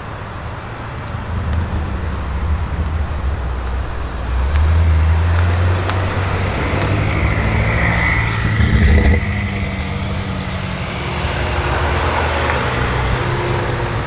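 BMW M5 F90's 4.4-litre twin-turbo V8 with a SuperSprint exhaust, running loud and deep. The exhaust note swells about four seconds in and peaks around nine seconds in, as it is revved.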